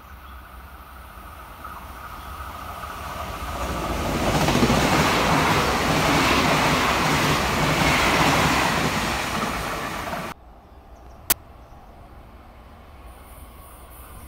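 Puyuma Express tilting electric train running past the platform: the rumble of wheels on rails grows over a few seconds, stays loud for about six seconds, then cuts off abruptly about ten seconds in. A single sharp click follows about a second later.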